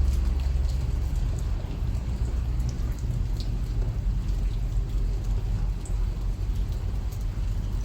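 Steady rain falling, with scattered drop ticks over a heavy low rumble.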